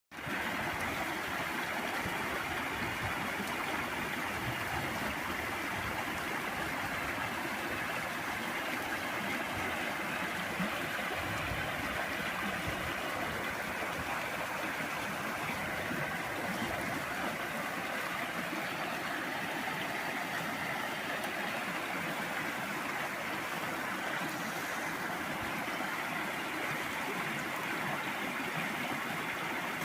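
Flowing water, a steady even rush that does not change.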